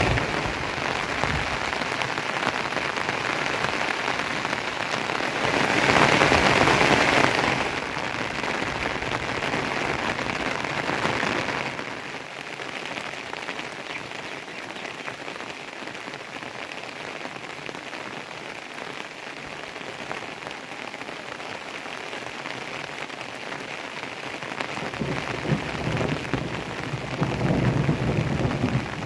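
Rain falling steadily as an even hiss. It is louder for a second or two about six seconds in, softer through the middle, and swells again near the end.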